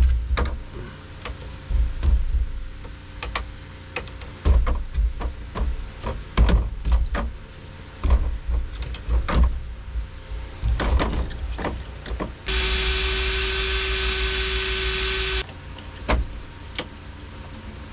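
Scattered clicks and knocks of tool handling, then about twelve seconds in a power drill runs at a steady speed for about three seconds and stops abruptly, drilling out a seized truck ignition switch.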